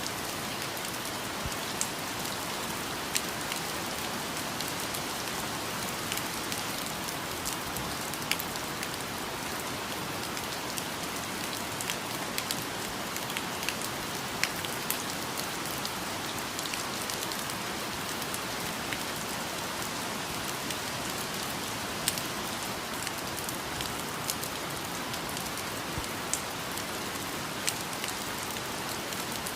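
Steady rain falling, a dense even hiss with scattered louder individual drops striking close by.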